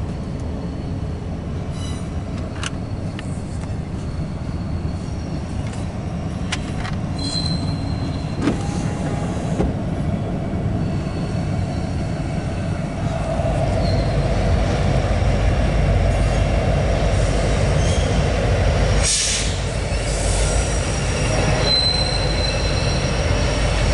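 Union Pacific double-stack intermodal freight train rolling over a steel trestle bridge: a steady rumble of wheels on rail with a few brief high wheel squeals. The rumble grows louder about halfway through.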